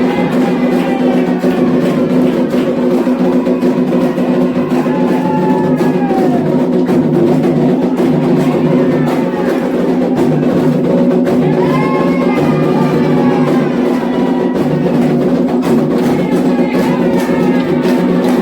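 Candomblé ritual music: atabaque hand drums beat a dense, steady rhythm under voices singing a chant.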